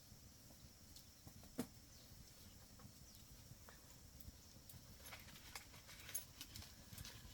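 Near silence with faint scattered clicks and taps. There is one sharper knock about one and a half seconds in, and a quicker run of small ticks near the end.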